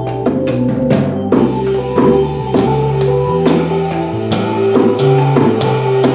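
Jazz organ trio playing live: the organ carries a bass line of held low notes and sustained chords or melody notes over a drum kit. The drums strike in a steady rhythm, and the cymbals fill in about a second in.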